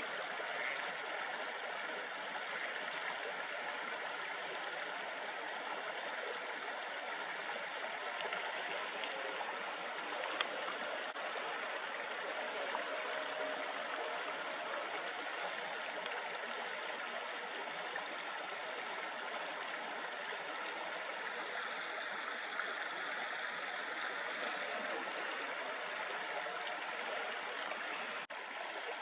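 River water babbling steadily over a shallow stream bed, with one sharp click about ten seconds in and a brief drop-out near the end.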